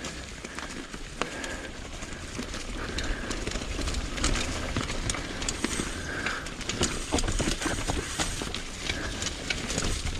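Mountain bike riding over rough, rocky trail: tyres crunching and the bike rattling in quick, irregular knocks, over a low rumble of wind on the microphone.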